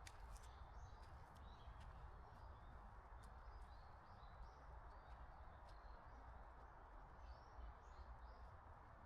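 Near silence: faint outdoor ambience with many short, faint bird chirps scattered throughout.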